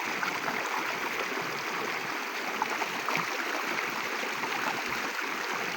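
Steady rush of a river flowing, running high and fast after heavy rain.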